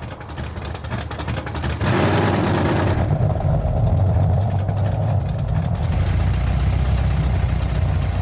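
1969 Ford Mustang's engine running, with a pulsing rumble at first that gets much louder about two seconds in as the car accelerates, then pulls steadily.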